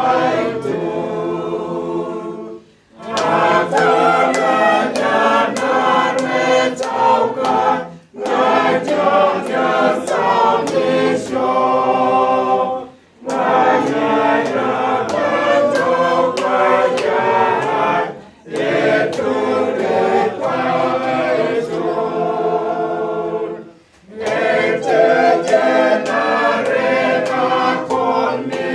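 Choir singing unaccompanied, in phrases of about five seconds with short breaks between them.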